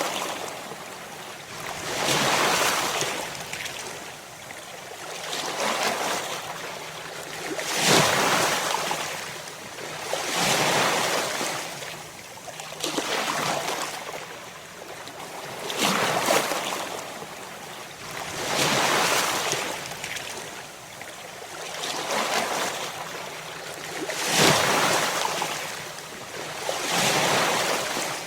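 Ocean waves breaking, the surf swelling and fading about every two and a half seconds.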